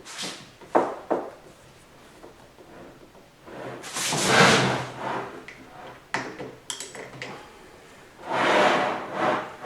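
Parts of a Ford 5R55S transmission being handled on a workbench: two sharp clicks about a second in, then two longer sliding, scraping sounds.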